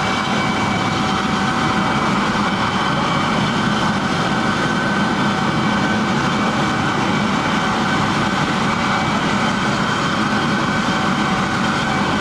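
Emergency helicopter's turbine engine running on the ground with its rotor blades turning, warming up before take-off: a steady whine over a low rumble.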